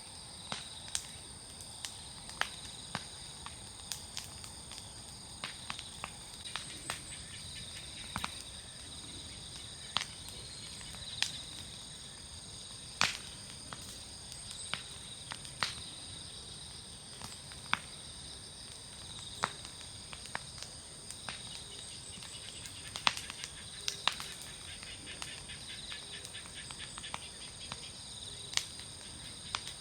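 A wood bonfire crackling, with irregular sharp pops and snaps of burning firewood, over a steady high-pitched chorus of insects singing.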